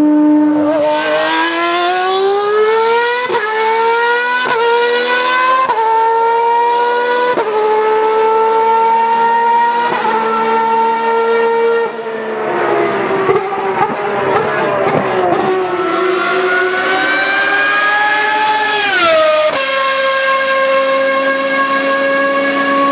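Ferrari V12 Formula One engine at full song, accelerating through a run of quick upshifts, the pitch climbing and dropping briefly at each change. Midway the note turns rough and noisy for a few seconds, then it climbs again, falls steeply, and settles into a steady high note.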